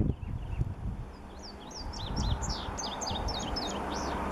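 A songbird singing a quick run of short, high, sweeping chirps that starts about a second in, over a steady low rumble.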